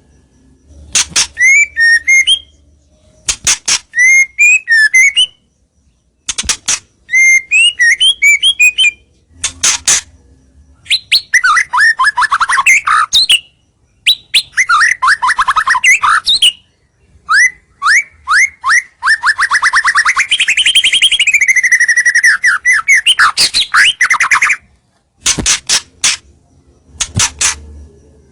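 White-rumped shama (murai batu) singing a loud, varied song: sharp clicking notes and short rising whistled phrases, then rapid trills, the longest running about seven seconds in the second half. It is the vigorous territorial song used as a lure call to draw rival shamas in.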